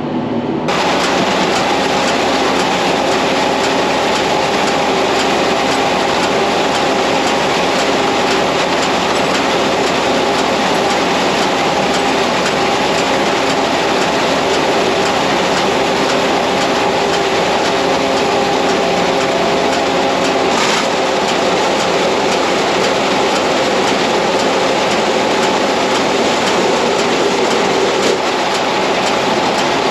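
Tractor and New Holland Roll-Belt 450 round baler running steadily while baling hay: a loud, even mechanical noise with several steady tones, and one faint click about two-thirds of the way through.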